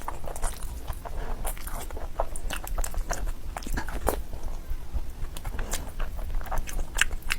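A person eating close to the microphone, mukbang-style: chewing and biting with many irregular crunchy clicks and smacks.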